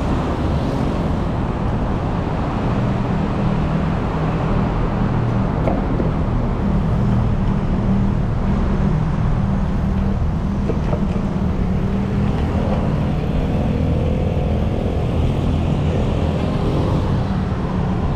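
Steady city road traffic: the low hum of vehicle engines running close by, over a constant wash of road noise.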